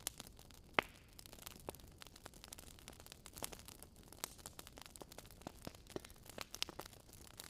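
Wood fire crackling: faint, irregular sharp pops and snaps over a low hiss, with one louder pop about a second in.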